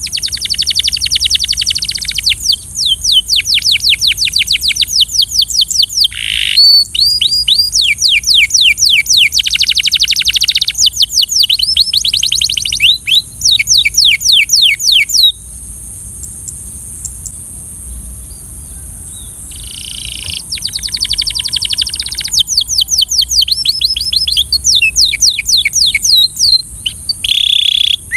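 Canary singing: long, fast trills of rapidly repeated down-sweeping notes in phrase after phrase, pausing for a few seconds midway before starting again. A steady high hiss runs underneath.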